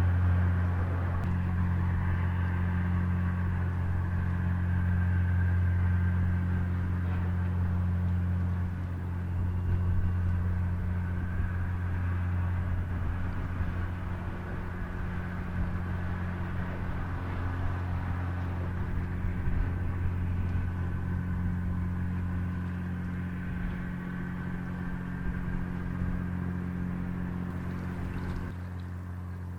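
Diesel engines of the Great Lakes freighter John G. Munson giving a steady low hum as the ship passes, easing slightly near the end.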